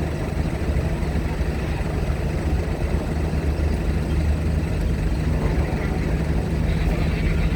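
Heavy diesel engine idling with a steady low drone.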